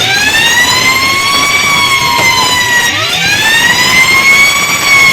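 Wailing siren rising and falling in pitch over and over, each cycle lasting about three seconds.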